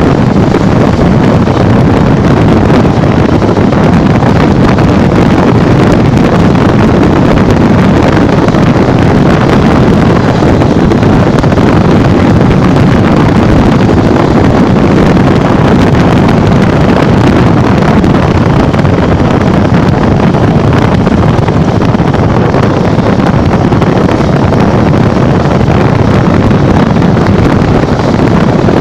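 Loud, steady wind rushing and buffeting on the microphone of a motorcycle riding at speed.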